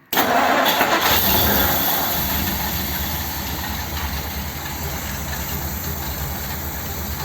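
1957 Ford Thunderbird's V8 engine cranked into life and running steadily, after fresh squirts of fuel from the carburettor's accelerator pump. It comes in suddenly at its loudest and settles slightly.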